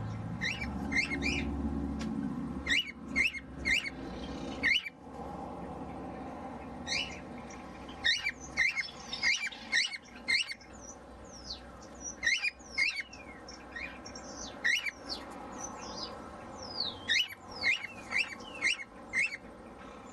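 Cockatiels chirping and calling: many short chirps, some in quick runs, and whistles that slide down in pitch, with a low rumble in the first two seconds.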